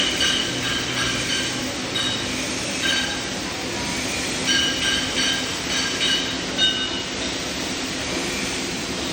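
Steady workshop machine hum and hiss with short high metallic squealing tones coming and going, during stainless steel welding work.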